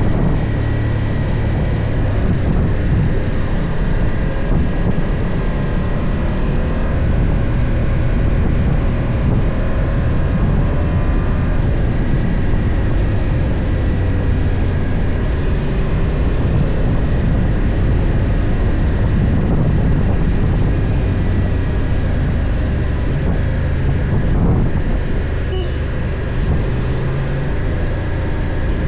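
BMW F 800 GS parallel-twin engine running while riding at a steady pace, its note wavering slightly, under a constant low rumble of wind and road.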